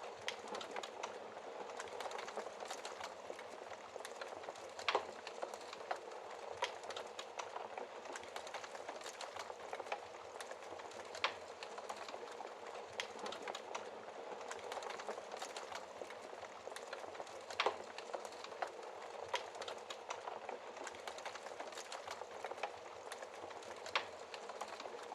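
Wood fire crackling: a steady hiss with frequent small pops, and a louder pop about every six seconds.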